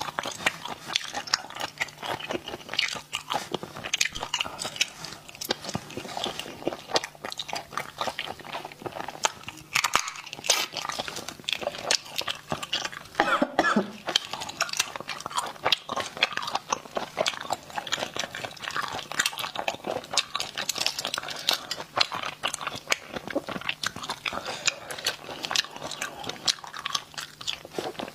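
Close-miked eating sounds: a woman chewing and biting spicy snails, with a constant run of sharp, wet clicks and smacks.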